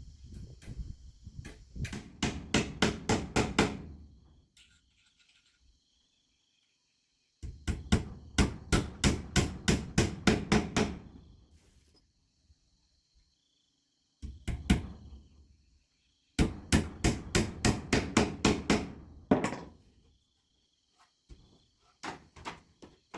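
Hammering on wood: quick runs of sharp blows, about four a second, in bursts of a few seconds each with pauses between.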